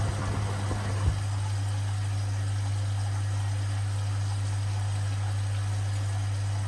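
Washing machine on its spin cycle with sneakers in the drum, giving a steady low motor hum. A few knocks in the first second or so, the last just after a second in, then the hum runs on evenly.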